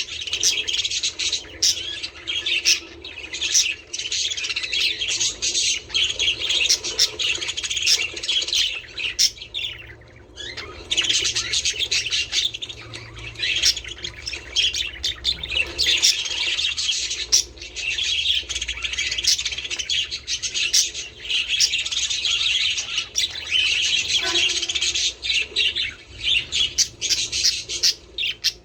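A flock of budgerigars chattering continuously: a dense, overlapping warble of chirps and squawks, with a brief lull about ten seconds in.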